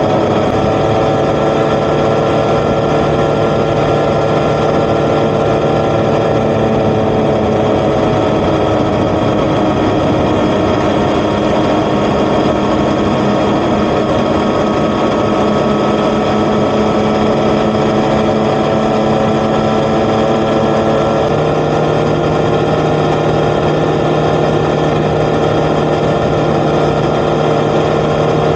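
Yamaha XSR900's CP3 crossplane inline-three engine through an Akrapovic titanium exhaust, running steadily while riding, over a steady hiss of wind and road noise. Its note sags slowly and then steps up a little about three-quarters of the way through.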